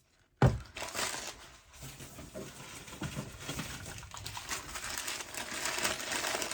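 A knock as a stone is set down, then paper wrapping rustling and crinkling steadily as a crystal specimen is unwrapped.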